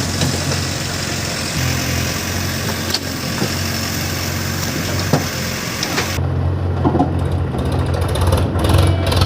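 Heavy diesel engine running steadily, with a few short knocks. About six seconds in the sound changes: the high hiss drops away and the low engine note gets stronger.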